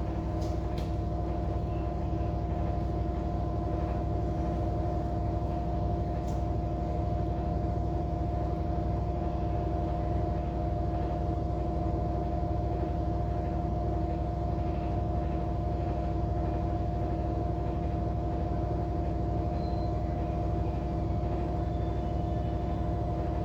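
Air conditioner running with a steady mechanical hum: a low rumble with several fixed tones that do not change.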